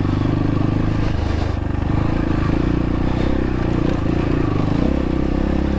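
X-Pro Templar X 250 dirt bike engine running steadily as the bike is ridden slowly through rocks, the revs rising and falling a little.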